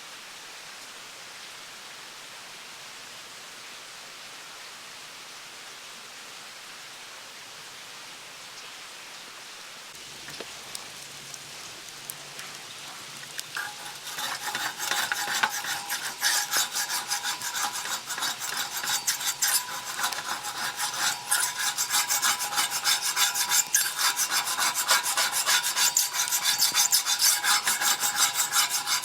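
Steady hiss, then from about halfway in a fast run of scraping and clicking of metal on metal, typical of spatulas chopping and scraping monjayaki on an iron griddle. It gets louder toward the end.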